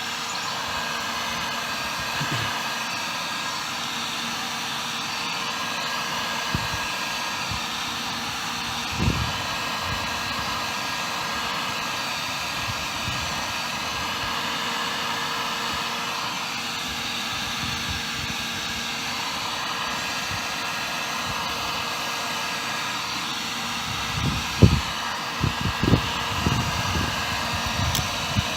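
Electric heat gun running steadily, its fan blowing with a faint whine, heating a glued PVC pipe joint to soften the cement. A few dull knocks come near the end.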